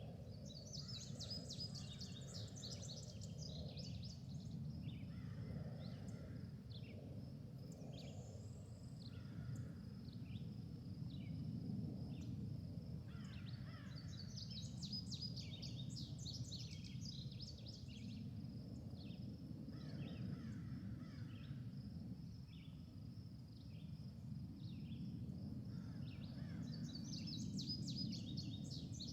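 Faint birds chirping in the background, with a chattering song phrase that recurs about every thirteen seconds and scattered single chirps between, over a steady low rumble.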